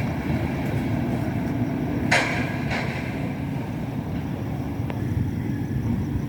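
A steady low mechanical rumble, with two short sharp knocks a little over two seconds in.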